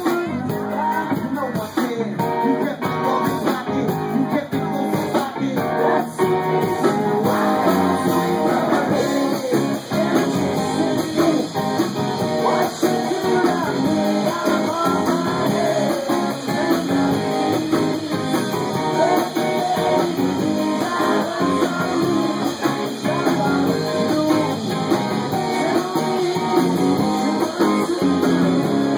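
Band music led by strummed and plucked guitar, playing steadily without a break.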